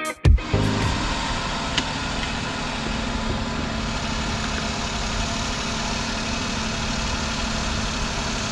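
A car engine idling steadily: the donor car running during a jump-start of another car's flat battery.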